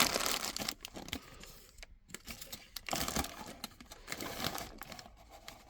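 Plastic packaging crinkling and rustling in bursts as parts are handled and pulled out of a box, loudest in the first second.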